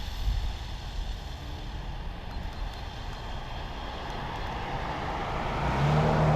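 A car on the road approaching, its tyre and engine noise growing louder over the last couple of seconds, over a low rumble of wind on the microphone.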